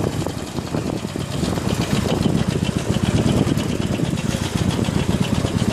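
Harley-Davidson Iron 883's V-twin engine running as the bike is ridden, its fast low pulsing getting louder about two seconds in.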